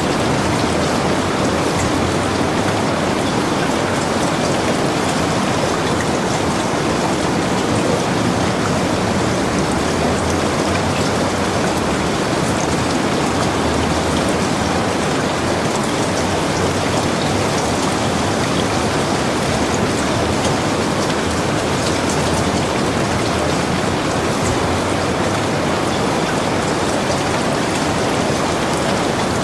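Heavy rain falling steadily, an even hiss flecked with the fine ticks of single drops.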